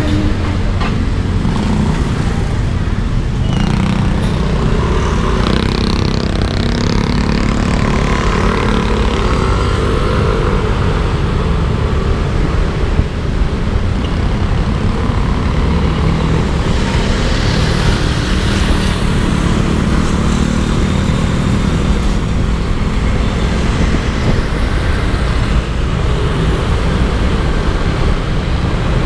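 Yamaha Aerox 155 scooter riding through traffic: its single-cylinder engine runs under way, its pitch rising and falling, over a steady rush of wind and road noise on the mounted camera's microphone.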